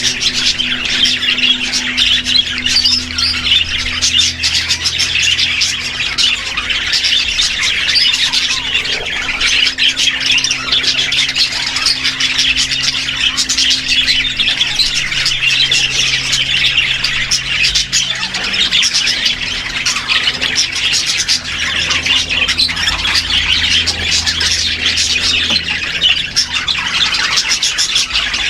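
Many caged small parrots chattering and squawking at once, a dense unbroken din, with a low steady hum underneath.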